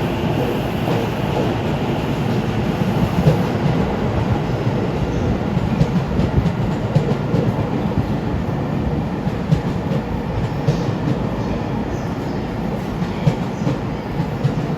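JR East E231-500 series electric train running past on the rails: a steady rumble of wheels and motors, with irregular sharp clacks as the wheels cross rail joints.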